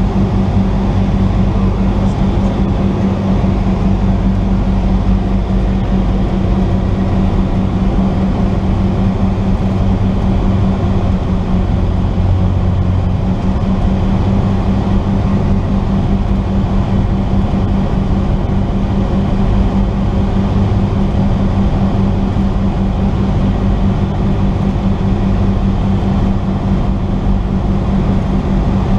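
Cessna 172's piston engine and propeller running steadily under power, a constant low drone with a strong even hum.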